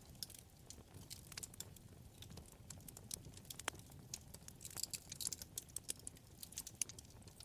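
Wood fire in a fireplace crackling: rapid, irregular pops and snaps over a low steady rumble, with a denser flurry of crackles about five seconds in.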